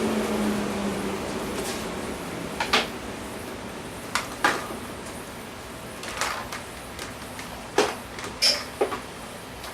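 A chop saw's motor humming as it winds down and fades over the first couple of seconds. Then a scattering of sharp knocks and clacks, about seven of them, like wood pieces being set down and handled.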